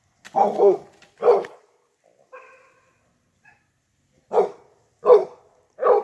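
A dog barking in separate sharp barks: a quick group of about three early on, then after a pause three more spaced under a second apart. The dog is barking at crows and large birds flying overhead.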